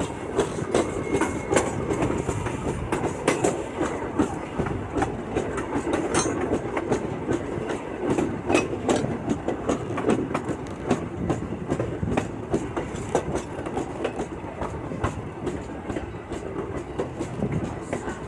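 Passenger railroad car rolling over the track: a steady rumble of steel wheels on the rails, with frequent, irregular clicks and clacks.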